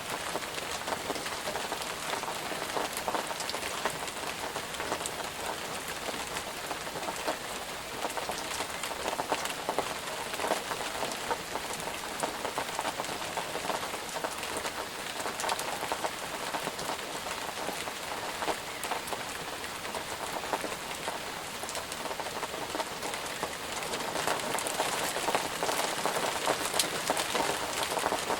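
Steady rain falling on a surface, a dense hiss full of fine drop patter, a little heavier near the end.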